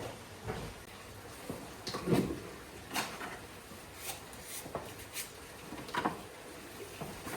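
Irregular light knocks and clatter of things being handled and set down, a handful of separate hits about a second apart, the loudest a little over two seconds in.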